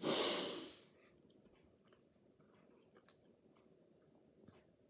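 Someone eating a flaky crookie, a croissant baked with cookie dough. It opens with a loud breathy rush of air lasting under a second, then only faint, quiet chewing.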